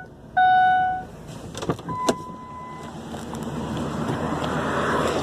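Ford Explorer engine running just after being freed from seizure, with oil still in its cylinders; a loud beep sounds about half a second in, a couple of sharp clicks follow, and the engine noise then builds and holds steady.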